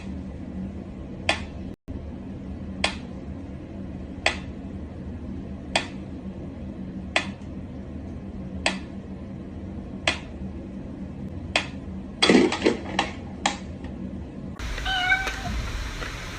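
A pet cat's clip: sharp taps about one every second and a half over a steady low hum, then a quicker run of louder taps about twelve seconds in.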